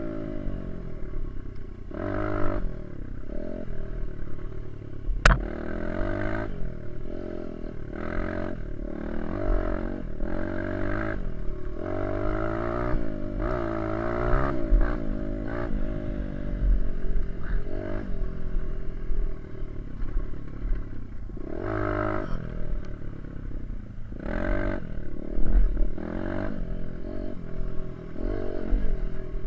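Small dirt bike engine being ridden, its pitch repeatedly climbing under throttle and dropping as it shifts or backs off. There is a sharp click about five seconds in.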